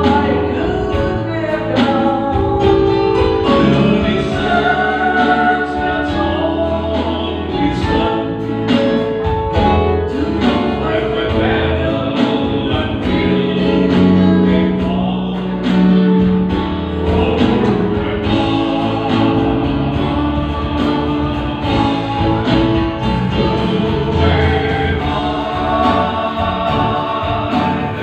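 A song: singing over instrumental accompaniment, in a gospel style.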